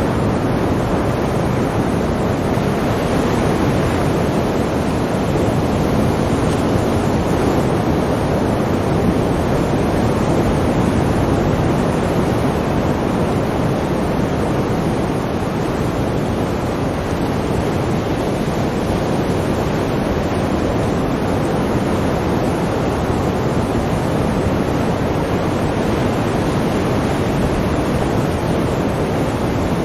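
Sea waves washing onto a shore in a steady, continuous roar of surf.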